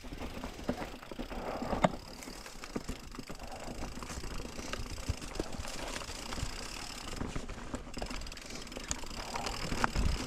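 Mountain bike rolling over a dirt singletrack trail: steady tyre noise with scattered clicks and rattles from the bike.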